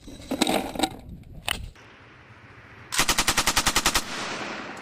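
Belt-fed machine gun firing one short burst of about a dozen rounds in about a second, with an echo rolling away afterwards. A few knocks and rattles come before it.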